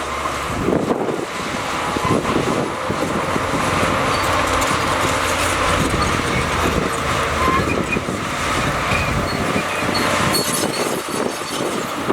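Diesel engine of heavy earthmoving machinery running steadily, with short high squeaks scattered through it.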